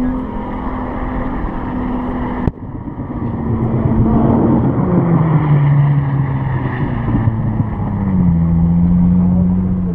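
Holden VT Commodore engine held at high revs during a burnout. A sharp click comes about two and a half seconds in; the engine note then drops midway and climbs again near the end as the car drives out of the smoke.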